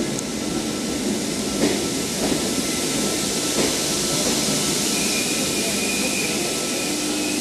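V-set double-deck electric intercity train pulling into the platform, a steady rumble of wheels on rail with a couple of faint knocks. A thin high squeal comes in about five seconds in as it slows.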